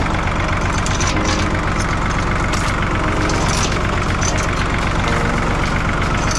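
Tractor engine running steadily at a constant speed, with a fast, even beat.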